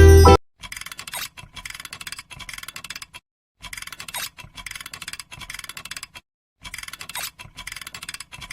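Music cuts off; then a dense crackling of fine clicks plays three times in near-identical stretches of about two and a half seconds, with short silences between them, like a looped sound.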